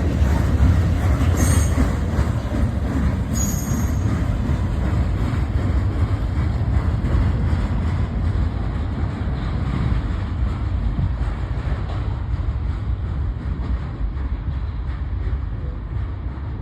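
Freight train's cars rumbling past on the rails, with brief high-pitched wheel squeals about one and a half and three and a half seconds in. The rumble slowly fades as the train draws away.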